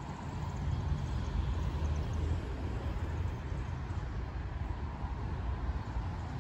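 Low, steady rumble of a loaded coal train running away into the distance.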